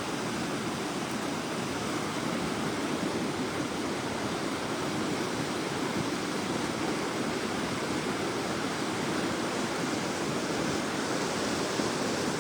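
Floodwater rushing steadily down a river swollen by thunderstorm runoff.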